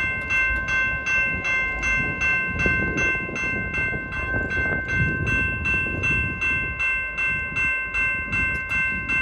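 Railroad grade-crossing bell ringing steadily, about two and a half strokes a second, over the low rumble of a train going through the crossing.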